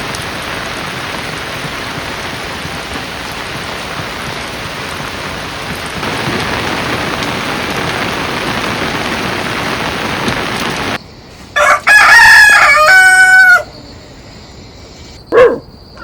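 Steady heavy rain, growing louder about six seconds in and cutting off abruptly about eleven seconds in. A rooster then crows once, and near the end a dog barks once.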